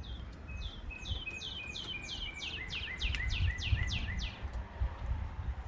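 A small songbird singing: a run of about a dozen quick whistled notes, each sweeping downward, growing louder and lasting about four seconds, over a low rumble.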